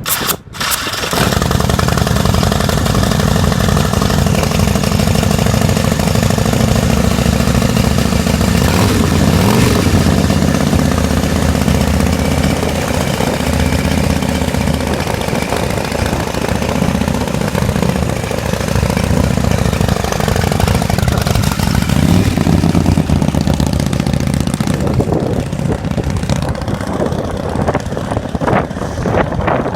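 Ultima 127 cubic-inch V-twin motorcycle engine starting about a second in and then idling, with a couple of brief throttle blips.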